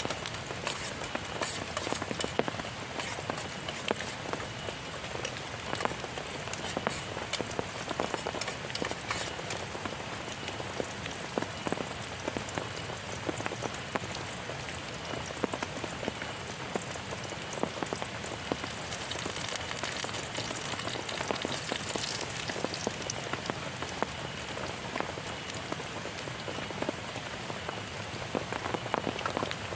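Heavy rain falling steadily, with many individual drops striking close by as sharp taps over the constant hiss.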